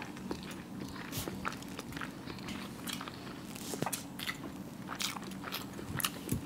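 Close-up eating sounds of people chewing hard-boiled eggs in masala gravy: wet chewing and lip smacks in many short, irregular clicks. A steady low hum runs underneath.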